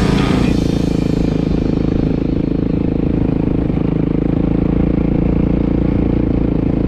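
Motorcycle engine running at a steady speed, a low, even engine note.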